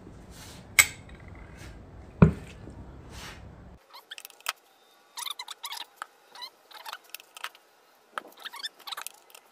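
Small metal valve-train parts being handled on a workbench, lifters for the exhaust side of a 2AZ-FE cylinder head: two sharp knocks in the first few seconds, then a run of light clicks and taps.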